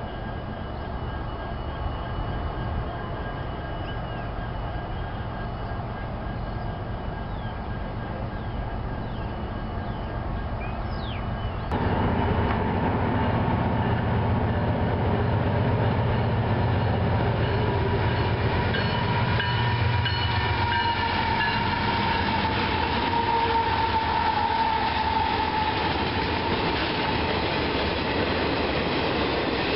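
Freight train rolling past: steel wheels clattering over the rail joints as freight cars go by, with a low rumble underneath. About a third of the way in it turns suddenly louder and closer, and in the second half a thin high squeal is held for several seconds.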